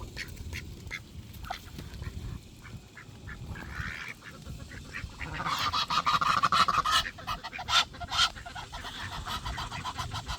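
Ducks calling, with a loud run of harsh quacking from about five to seven seconds in, then a few sharp clicks.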